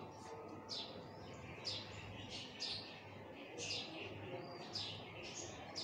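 Small bird chirping repeatedly, short falling chirps about one or two a second.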